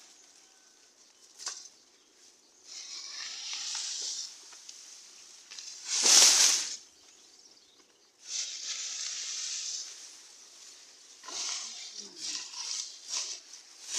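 Repeated bursts of rustling and swishing, each a second or two long, with the loudest about six seconds in and a quick run of shorter ones near the end.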